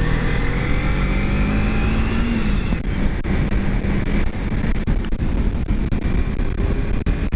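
Kawasaki Ninja 300's parallel-twin engine accelerating, its pitch rising for about two and a half seconds and then holding steady, with wind rushing over the helmet microphone.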